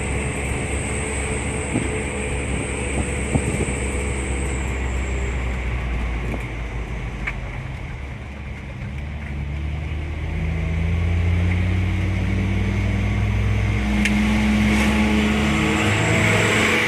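Mitsubishi L300 pickup's engine running on the road, steady at first, dipping briefly about eight seconds in, then pulling louder with its pitch slowly rising as it accelerates.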